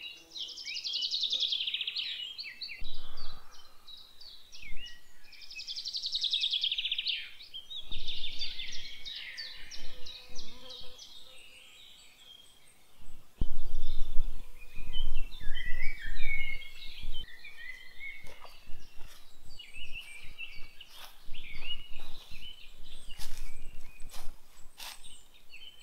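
Several songbirds singing in woodland, including repeated fast trilled phrases that fall in pitch, with a low rumble for a few seconds about halfway through and scattered sharp clicks in the later part.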